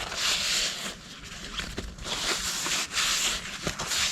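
A rag wiping down a freshly scrubbed metal magneto flywheel, a hissing rub in repeated strokes.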